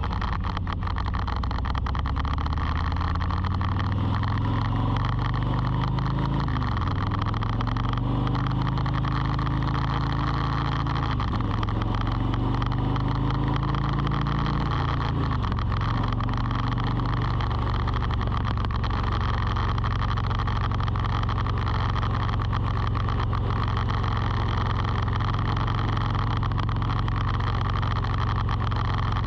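A motor running steadily. Its low pitch rises and drops several times in the first half, then holds steady, under a constant high whine.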